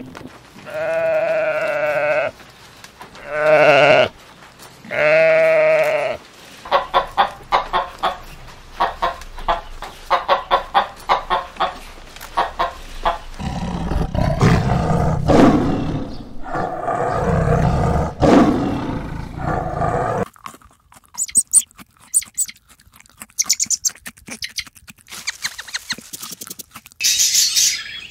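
A run of animal calls in turn. Three long wavering livestock calls come in the first six seconds, then a quick series of short calls, then a tiger's deep growls through the middle. High bird chirps and squawks follow near the end.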